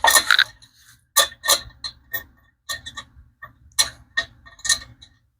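Small metal washers and a nut clicking and clinking as they are handled and fitted onto a bolt, a string of irregular sharp clicks, the loudest at the start.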